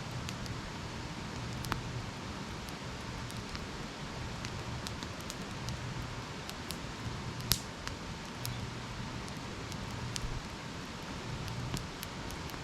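Wood campfire burning: a steady hiss with scattered crackles and one sharper pop about seven and a half seconds in.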